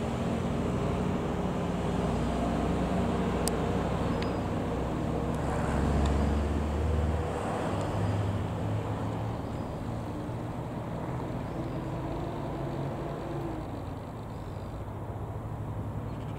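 A Rockwell Commander 114 light aeroplane's single piston engine and propeller droning as it passes. The drone builds to its loudest about six seconds in, then slowly fades away.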